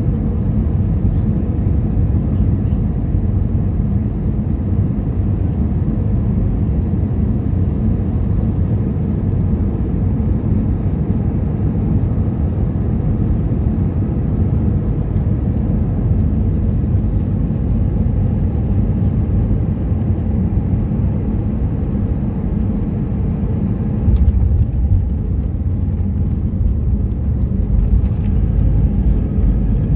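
Steady low rumble of engine and airflow noise inside an Airbus A320's passenger cabin, turning louder and rougher in the deep range late on.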